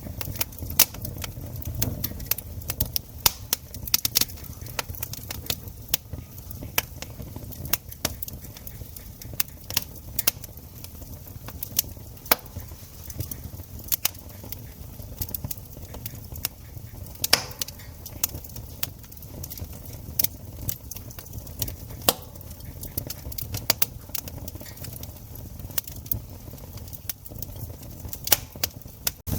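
Campfire crackling: irregular sharp snaps and pops of burning wood over a low steady rumble.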